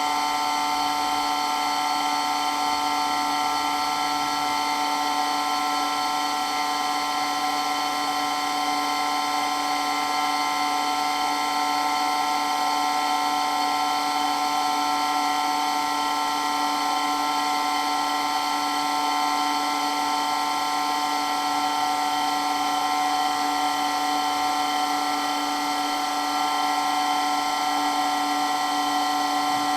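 Water pump running steadily, a constant whine of several steady tones over a hiss.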